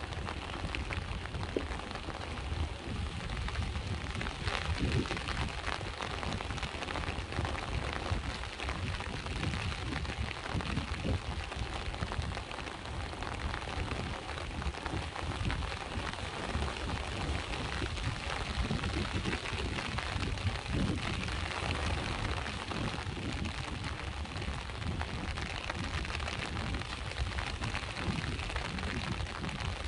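Steady rain falling, with many close drop ticks over a continuous hiss, and a low rumble of sea waves underneath.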